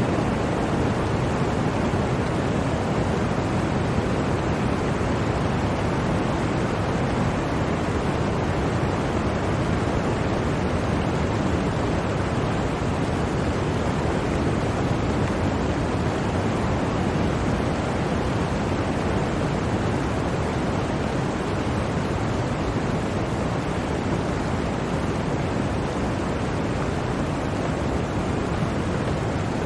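Blizzard wind, a steady even rushing noise with no gusts or breaks.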